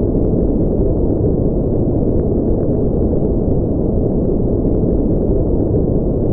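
Steady, unchanging noise track for sleep or focus, deep and rumbling rather than hissy, with almost nothing in the high end.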